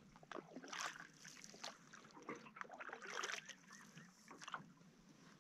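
Faint canoe paddling: a paddle dipping, with small irregular splashes and drips of water.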